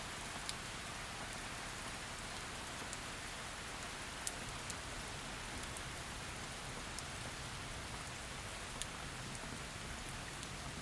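Heavy rain falling steadily, an even hiss with scattered sharp drip ticks, the clearest about four seconds in and again near nine seconds.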